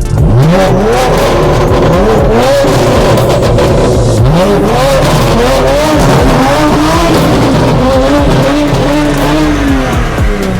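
Race car engine revving hard, its pitch repeatedly climbing and dropping back in a series of rises and falls, falling away near the end.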